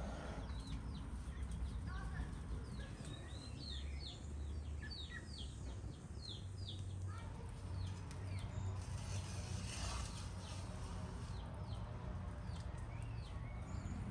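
A small songbird chirping a quick run of short, downward-sliding notes for several seconds, over a low steady outdoor rumble.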